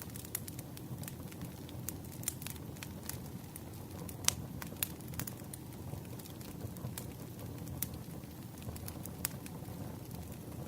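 Wood campfire burning: irregular sharp crackles and pops over a low steady rumble of flame, with the loudest pop about four seconds in.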